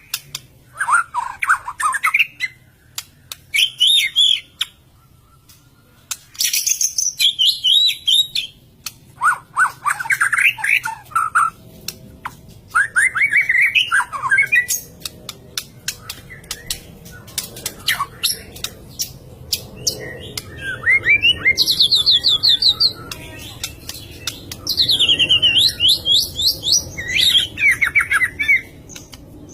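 White-rumped shama singing in full song: a string of short phrases, each a quick run of rising and falling whistles and chattering notes, some very high, with brief pauses between.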